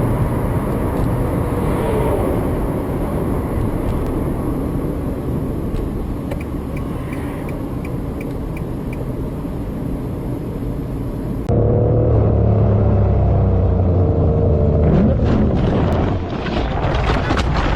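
Car engine and road noise from a moving vehicle, a steady drone. About two-thirds of the way through it cuts abruptly to a different recording with a louder, lower engine hum.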